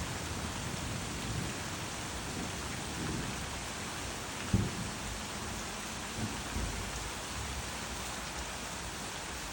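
Steady rain falling during a thunderstorm, with a low thunder rumble dying away at the start. There is a sharp, loud thump about four and a half seconds in, and two softer ones a couple of seconds later.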